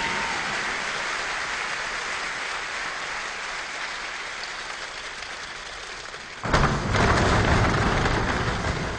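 A choir imitating a rainstorm with hands and bodies: a steady patter that slowly thins out. About six and a half seconds in comes a sudden loud thunderclap, then a second surge, and a heavier downpour that eases off near the end.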